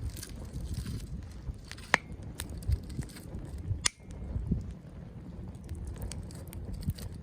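Wood campfire crackling, with scattered small snaps and two sharper pops, about two seconds in and near four seconds, over a low rumble.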